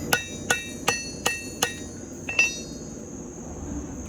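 Hand hammer striking the hot steel of a forged tomahawk head on the anvil: five ringing blows about 0.4 s apart, then two quick lighter taps a little past two seconds in, after which the hammering stops. Light cleanup blows to straighten the head.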